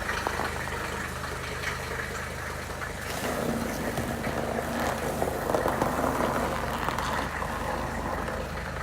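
Mercedes 300D five-cylinder diesel engine idling just after a cold start, still warming up. The sound grows louder for a few seconds in the middle, with an added steady hum.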